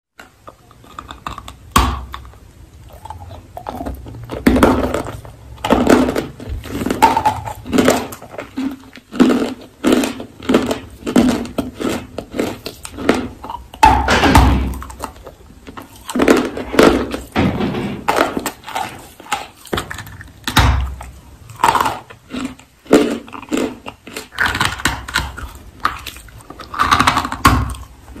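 Biting and chewing a chalky blue-grey lump of edible clay (nakumatt), picked up close: a long run of sharp crunches with softer chewing between them.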